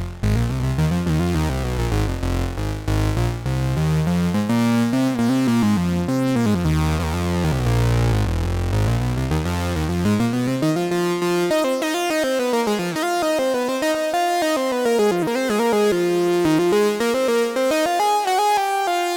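IK Multimedia UNO Synth PRO X analog synthesizer playing a demo patch: sustained notes that glide smoothly up and down in pitch. A low bass layer drops out a little past halfway, leaving the higher gliding line.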